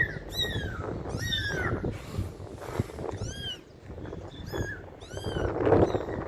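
Kittens mewing over and over: short, high-pitched calls that rise and fall in pitch, about seven in quick succession. A louder low rustle comes near the end.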